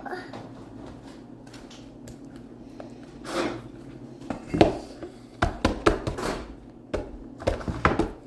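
Kitchen handling noises: knocks and clatters of items being picked up and set down, a run of them in the second half, over a low steady hum.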